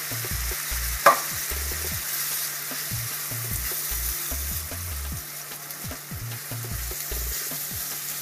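Chili mixture with canned chopped tomatoes sizzling in a hot pan while it is stirred, the spoon scraping and knocking against the pan, with one sharp knock about a second in.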